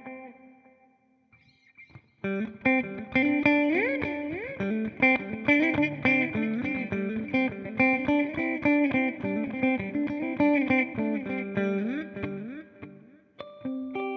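Electric guitar, a Fender Jazzmaster Modern Player with humbuckers, played through a TC Electronic Flashback delay pedal. The opening notes fade out to near silence. About two seconds in, a run of picked notes with several string bends starts, and near the end a new phrase of held notes begins.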